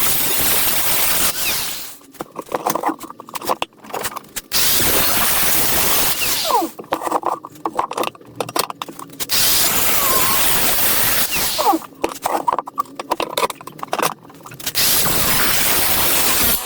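A power cutting tool slicing into the muffler's steel pipe end to make relief cuts for a tailpipe clamp: four cutting bursts of about two seconds each, with metal scraping and clinking between them.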